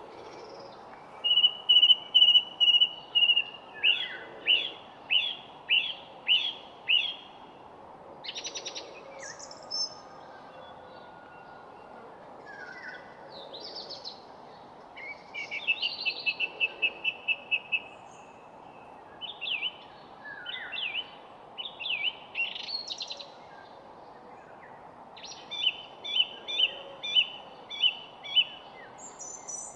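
Songbirds singing: a held whistle, then series of quick repeated notes and trills, with pauses between phrases. A steady low background hiss runs underneath.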